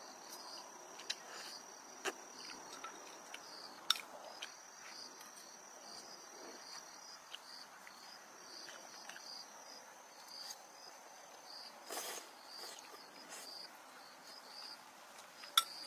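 Insects chirping: a regular pulsed chirp with a high, steady trill that comes and goes above it. A few sharp clicks or knocks cut through, the loudest near the end.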